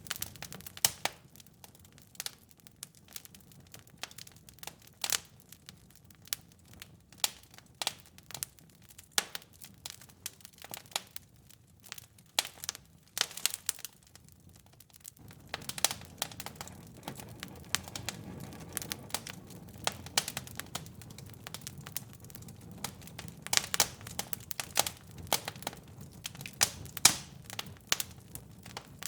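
Wood fire crackling in a fireplace: irregular sharp pops and snaps over a low rumble of burning, which swells louder about halfway through.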